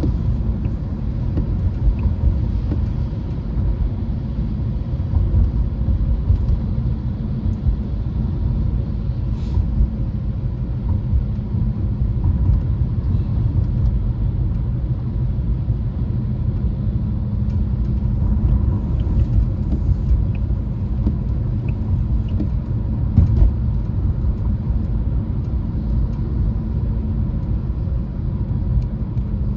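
Steady low rumble of a car driving along, with faint steady tones above it.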